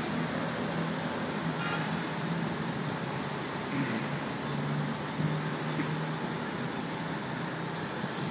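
Ferrari Scuderia Spider 16M's V8 engine idling steadily as the car creeps down a flatbed truck's ramp, with no revving, over street traffic noise.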